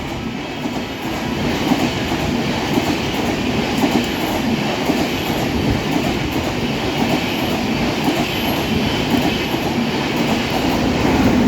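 Express passenger train rolling through the station at speed, its wheels clattering steadily over fishplated rail joints.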